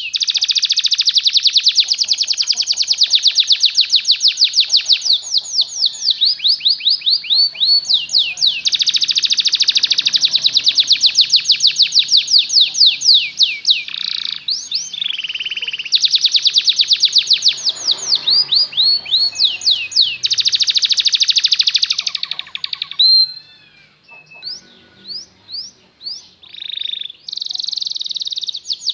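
A domestic canary singing long rolls of rapid, repeated high whistled sweeps, many a second, with the tempo changing from roll to roll. Near the end the song breaks into quieter scattered notes before a fast roll starts again.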